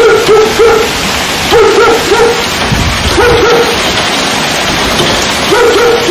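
Heavy thunderstorm rain pouring down steadily. Over it, a dog barks in short runs of two to four barks, a run every second or two.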